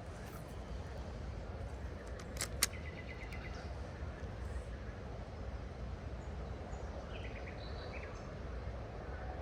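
Steady rush of flowing water. A sharp click comes about two and a half seconds in, and a few short bird chirps come near the end.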